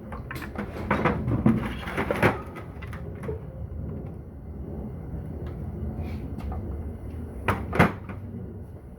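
Metal parts of a Corvair Powerglide transmission knocking and clunking as it is dismantled by hand: a cluster of knocks in the first couple of seconds and a louder double knock near the end, over a steady low hum.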